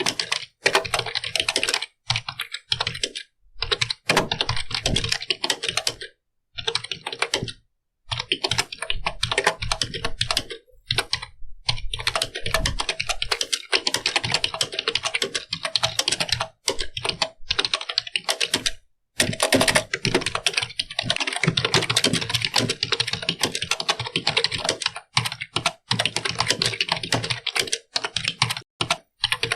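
Computer keyboard being typed on in quick runs of key clicks, with brief pauses between bursts. The pauses drop to dead silence, about a dozen times.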